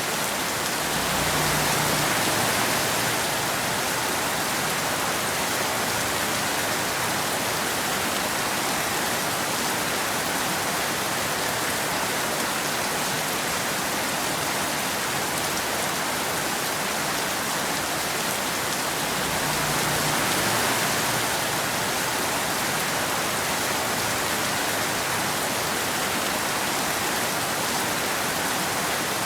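Steady rain falling as a continuous even hiss, swelling slightly for a moment about two seconds in and again about twenty seconds in.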